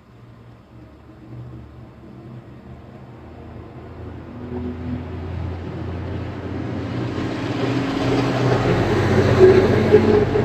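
Brazing torch flame rushing as it is played on the crimped end of a refrigerator's copper charging pipe to seal it, growing steadily louder through the second half, over a steady low hum.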